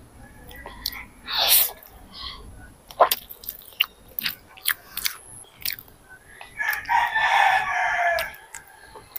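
Close-miked chewing and lip smacking of noodles, heard as many short wet clicks, through a clip-on microphone. A rooster crows once for about a second and a half near the end.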